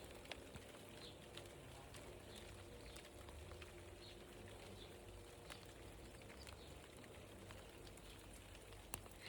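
Near silence: faint outdoor background with a low hum, a few scattered light ticks and faint high chirps, like distant small birds.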